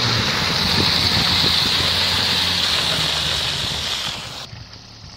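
An off-road SUV's engine running steadily under a loud, even rushing hiss; the sound fades and then cuts off suddenly about four and a half seconds in.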